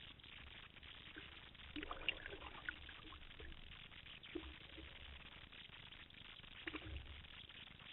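Small water splashes and dribbles coming in a few short bursts a couple of seconds apart, over a faint steady hiss.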